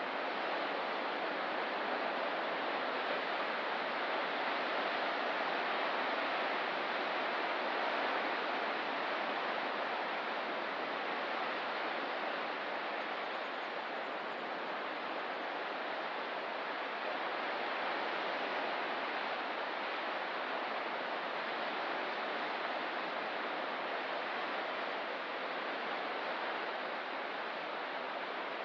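Ocean surf washing on the shore as a continuous, even hiss that swells and eases gently every several seconds.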